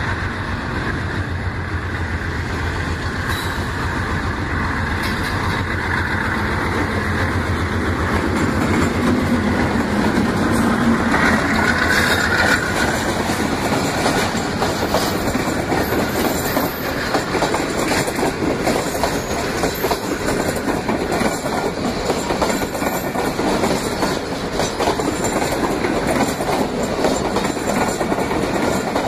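Pakistan Railways diesel-hauled passenger train passing close by. The locomotive's engine grows louder as it approaches, then the coach wheels keep up a long, steady clatter over the rail joints as the train rolls past.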